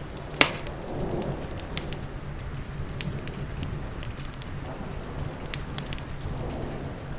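Wood fire crackling with scattered sharp pops, one louder pop about half a second in, over a steady hiss of rain.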